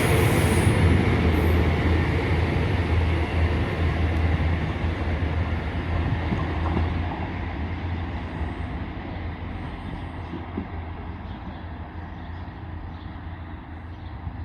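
Diesel multiple unit train running with a deep steady engine hum and rail rumble, growing steadily quieter as it moves away.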